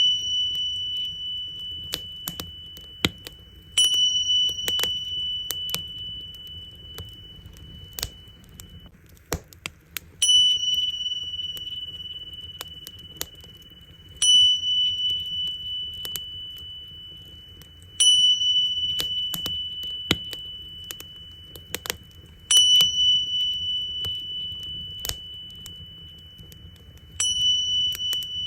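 Tingsha cymbals struck six times, about every four seconds, each stroke a bright high ring that slowly dies away. Under them a wood fire crackles with scattered sharp pops over a low rumble.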